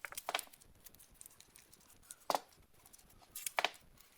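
A few light clicks and knocks from handling jack parts while preparing them for painting: one small cluster near the start, a single knock in the middle and another cluster near the end.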